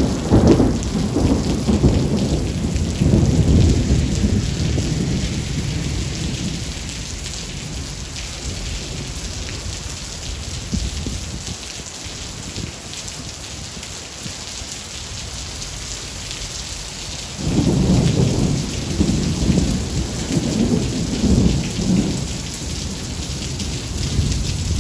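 Thunderstorm: steady heavy rain hissing throughout, with rolling thunder at the start that fades over several seconds and a second long roll of thunder starting about two-thirds of the way through.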